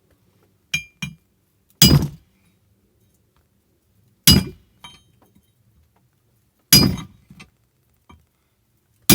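Hammer striking metal during an axe handle repair, with two light taps and then four heavy blows about two and a half seconds apart, each ringing briefly.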